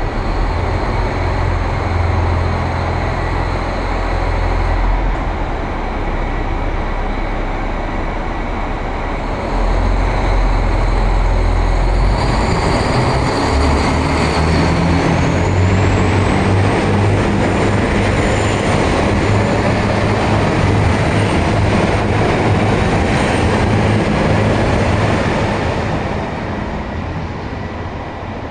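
JR Hokkaido KiHa 261 series diesel multiple unit pulling away, its diesel engines running under load with a low drone that shifts in pitch. A high whine rises about halfway through and then holds. The sound fades slightly near the end.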